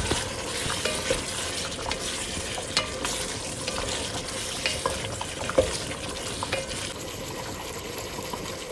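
Beef frying in a pot with a steady sizzle while a spoon stirs it, clicking against the pot now and then.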